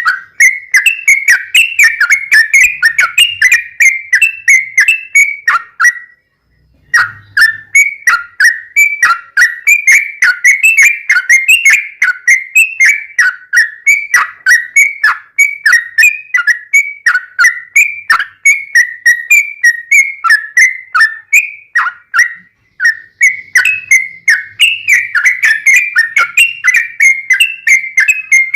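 Yellow-vented bulbul (trucuk) singing a fast, continuous run of short whistled notes, several a second, with brief pauses about six seconds in and again near twenty-two seconds.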